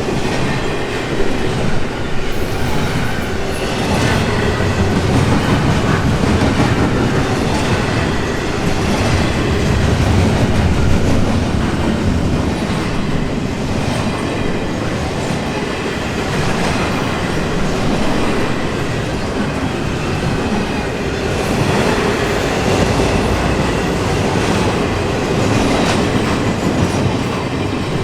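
Intermodal container freight train rolling steadily past: steel wheels clattering over the rail joints in a continuous rumble, with a faint high wheel squeal now and then.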